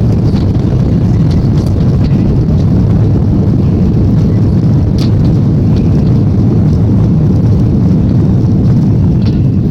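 Cabin noise of an Airbus A340-300 rolling on the ground after touchdown: a loud, steady low rumble from its four engines and the landing gear, with a few light rattles.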